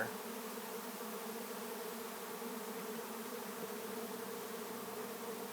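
Honey bee swarm in flight, a dense steady hum of hundreds of bees, as the swarm follows its queen into a swarm capture box.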